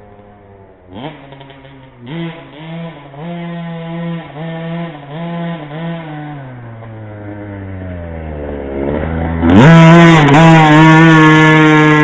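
2008 KTM 50cc two-stroke pit bike engine revving on a track: a string of short throttle blips, then a long falling note as it eases off, then a sharp rev up about nine and a half seconds in to a loud, steady high-pitched run.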